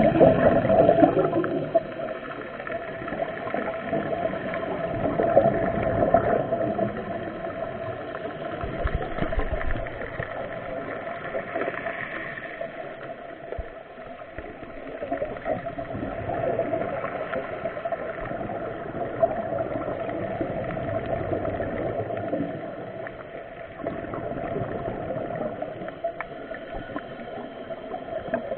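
Muffled underwater sound picked up by a diving camera: gurgling, bubbling water over a steady hum, swelling and fading irregularly.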